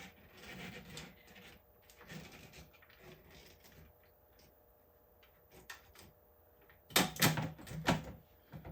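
Handling noises as a balloon is worked onto a balloon stuffer: faint rustling and rubbing, then a quick cluster of sharp clicks and scrapes about seven seconds in.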